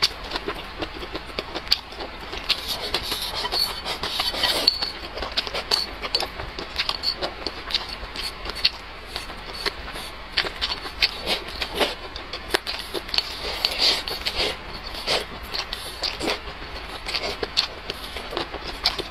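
Close-miked chewing: irregular wet clicks and smacks of a person's mouth as she eats, picked up by a clip-on microphone.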